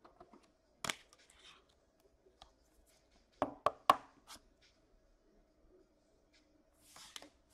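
Trading cards being handled: a tap about a second in, a quick run of three sharp clicks a little past the middle, and a soft swish near the end, over a faint steady hum.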